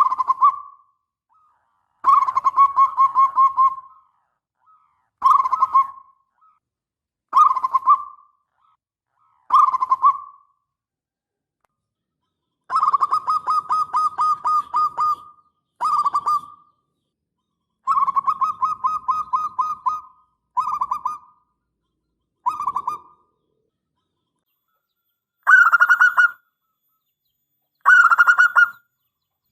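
Zebra dove (perkutut) cooing: about a dozen phrases of rapid, pulsing coos, short ones alternating with longer drawn-out ones, separated by silent pauses. The last two phrases are slightly higher.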